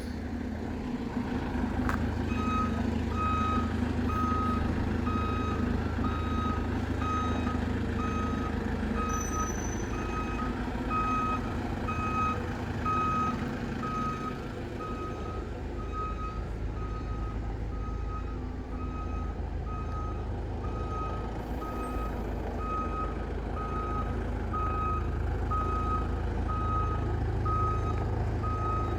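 Bus reversing alarm beeping steadily about twice a second, starting about two seconds in, over the low hum of the bus's diesel engine running.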